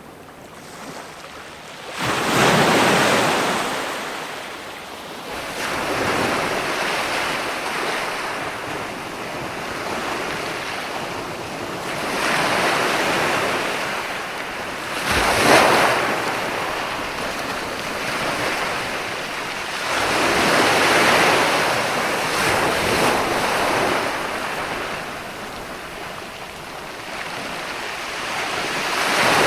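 Ocean surf: waves breaking and washing in one after another, each swelling up and fading away over a few seconds, with the loudest, sharpest crash about halfway through.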